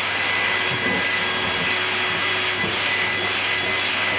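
Vacuum cleaner running steadily, a constant rushing hiss with a high whine, its nozzle used to groom a cat's fur.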